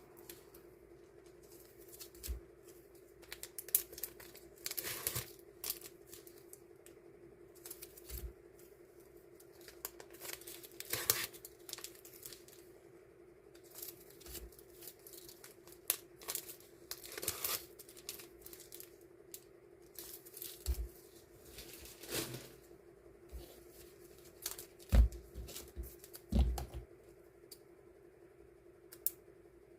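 Die-cut stickers and plastic packaging being handled for portioning: intermittent peeling, tearing and crinkling, over a steady low hum. Two heavier knocks on the table near the end are the loudest sounds.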